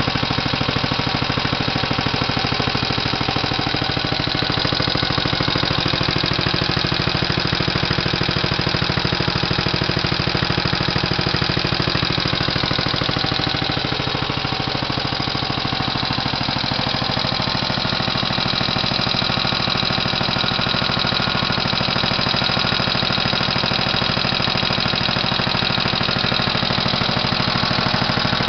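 1937 Briggs & Stratton Model H single-cylinder, air-cooled engine running steadily with a fast, even beat. It runs nicely and strikes the owner as almost like new.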